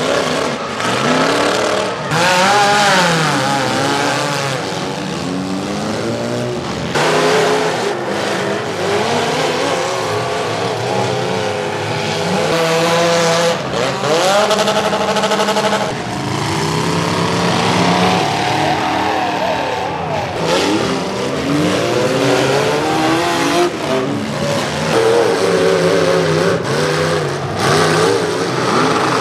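Demolition derby cars' engines revving hard, their pitch climbing and falling over and over, with sudden breaks and crashes as the cars hit each other.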